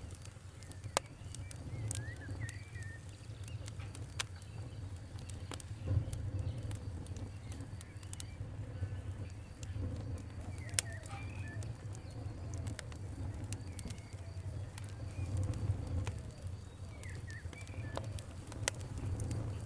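Wood fire crackling, with scattered sharp pops over a low steady rumble. Birds call faintly in the background.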